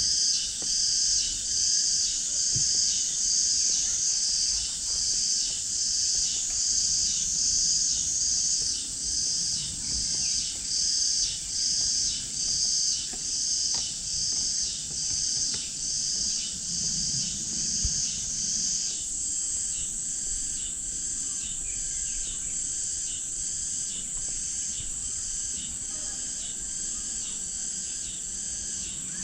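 Loud high-pitched insect chorus, pulsing about twice a second, that turns into a steady unbroken buzz about two-thirds of the way through.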